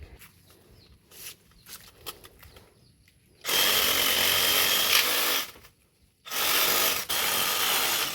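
A handheld power tool run in two bursts of about two seconds each, cutting through bougainvillea branches, with a steady whine in the first burst; a few light clicks come before it.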